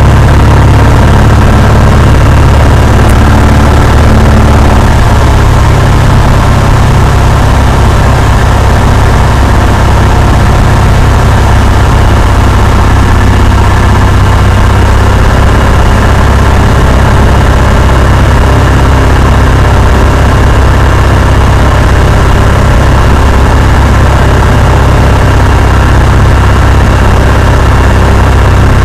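Cessna 172's piston engine and propeller running steadily: a loud, unbroken drone with a slight shift in pitch about five seconds in.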